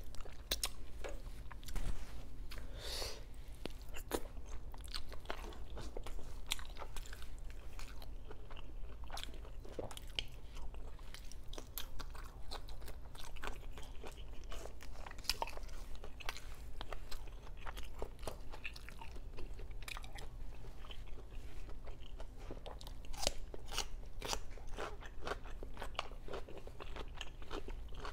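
Close-miked chewing and biting of food, with many crisp, irregular crunches; near the end a bite into a slice of raw cucumber.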